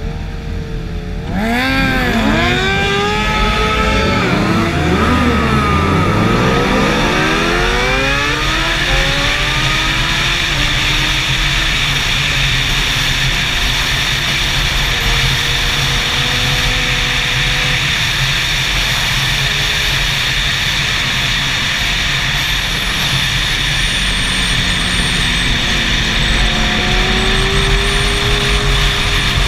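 Superbike engines on a race track, the revs sweeping up and down repeatedly in the first several seconds, then running on as a steady high-revving drone.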